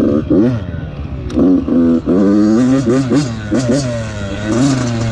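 Dirt bike engine revving, its pitch rising and falling several times as the throttle is worked, with a steadier stretch in the middle.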